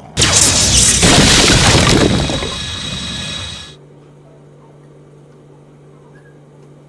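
A sudden loud crash with shattering, like something blowing up and breaking. It lasts about three and a half seconds, fading a little, then cuts off abruptly and leaves a steady low hum.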